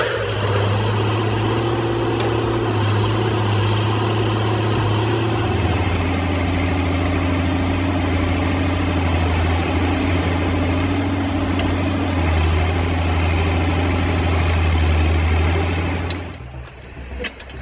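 Heavy forestry machine's diesel engine running steadily, with a high thin whine above it. The engine note shifts in pitch twice, then cuts off suddenly near the end.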